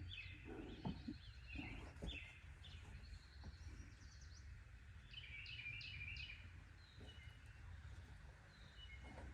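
Faint outdoor birdsong: small birds chirping in short, repeated notes, busiest around the middle, over a low, steady background noise, with a few faint clicks near the start.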